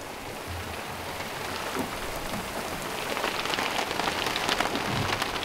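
Rain falling on a boat: a steady hiss of drops, with many small drop ticks that grow denser and louder over the last two seconds or so.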